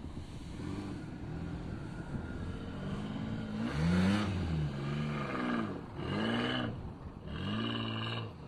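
Isuzu VehiCROSS V6 engine revving up and down several times as the SUV slides through snow past the microphone. It is loudest about four seconds in. The exhaust note is odd and rough because the exhaust front Y-pipe is cracked.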